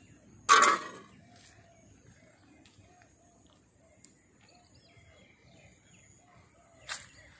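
A single short, loud, harsh bird call about half a second in, and a quieter short call near the end, over a faint steady high whine.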